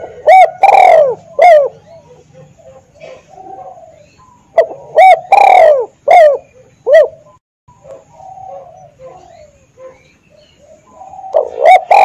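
Spotted dove (tekukur) cooing loudly in three phrases of several arched coos each: one near the start, one about five seconds in and one near the end. Fainter cooing fills the gaps between the phrases.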